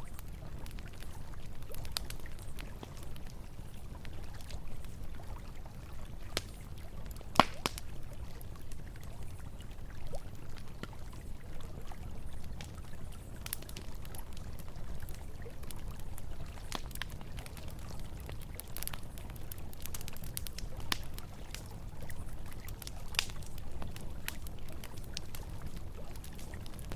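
Campfire crackling with scattered sharp pops, one louder about seven seconds in, over a steady low rush of flowing river water.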